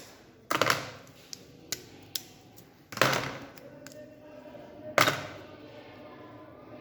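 Hard parts of a robot model knocking and clicking as they are handled: a few sharp knocks, the loudest about half a second, three seconds and five seconds in, with lighter ticks between.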